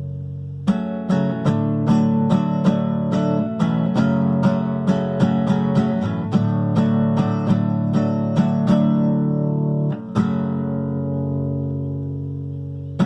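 Acoustic guitar playing alone: a ringing chord, then a run of single plucked notes at about three a second. About ten seconds in, a chord is struck and left to ring.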